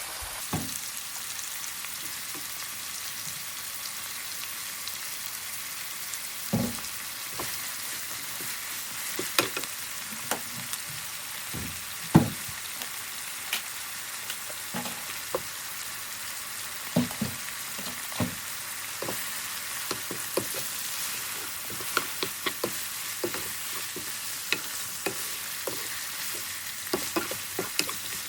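Food frying in a pan: a steady sizzle, with scattered short knocks and clicks of stirring, the loudest about twelve seconds in.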